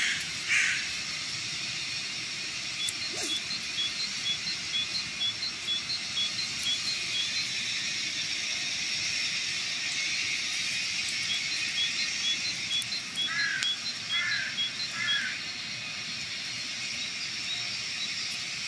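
Woodland ambience with a steady high hiss, over which a small bird repeats a short high note about three times a second in two runs. Three lower, falling calls come near the end.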